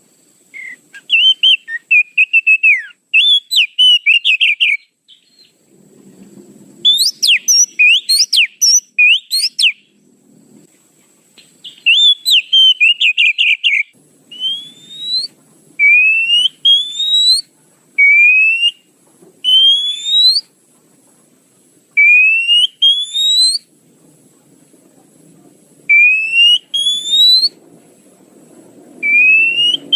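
Oriental magpie-robin (kacer) calling: bursts of rapid, varied chattering song, then a string of loud rising whistles repeated about every two seconds.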